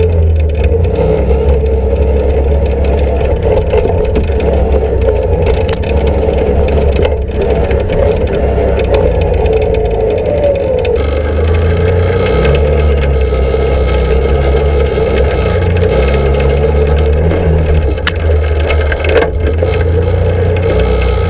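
Can-Am Outlander 800 ATV's V-twin engine running while riding over rough trail, with rattling and knocks from the machine and the ground. The sound changes about halfway through.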